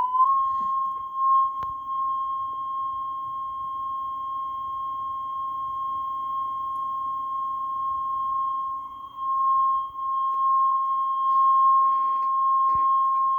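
Steady test tone of about 1 kHz played back on a Technics RS-1500 reel-to-reel tape deck, holding a constant pitch as a check of tape speed after the capstan motor repair. The tone steps up slightly in pitch right at the start, and a few faint clicks come through.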